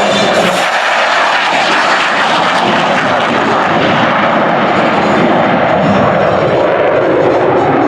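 F-15 Eagle's twin jet engines during a blow-by pass: a loud, steady rush of jet noise.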